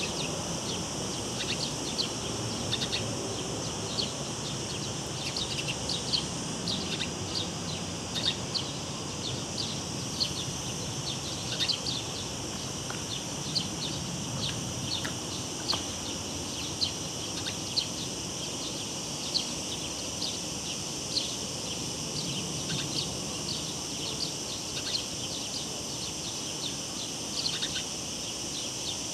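Cicadas droning in a steady high chorus, with short bird chirps dotted irregularly through it, over the low steady rush of the river.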